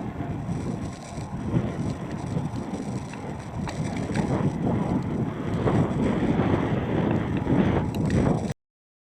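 Wind buffeting the microphone of a camera on a moving bicycle: a steady low rumble that swells and dips with the gusts. It cuts off suddenly shortly before the end.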